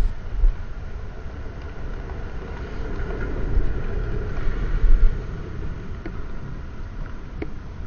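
Low, steady vehicle rumble, with an irregular deep swelling that peaks about five seconds in.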